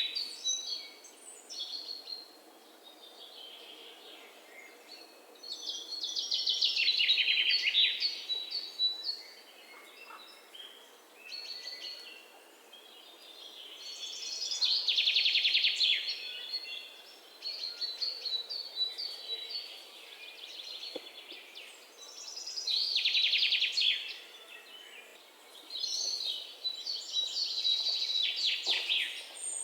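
Songbirds singing: four loud, rapid trilled song phrases, each two to three seconds long, with shorter, softer chirps between them.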